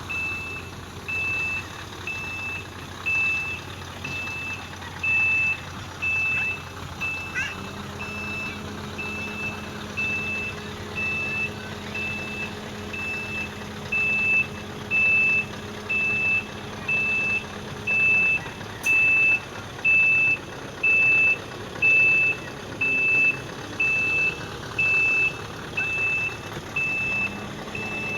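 A reversing alarm beeping steadily, a single high tone about once a second, over the steady running of a heavy diesel engine; a low hum from the machinery rises in about a quarter of the way in and fades about two thirds through.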